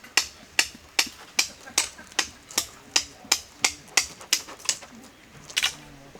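Steady hammering: about a dozen sharp, evenly spaced strikes, roughly two and a half a second, stopping a little under five seconds in, then one louder doubled strike near the end.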